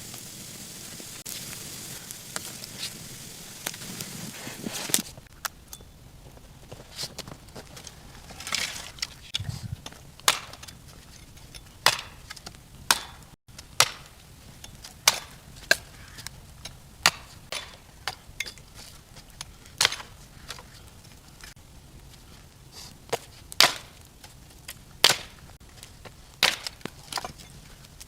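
Wood being chopped: sharp, irregular chops, roughly one a second, some louder than others, starting about five seconds in after a steady hiss.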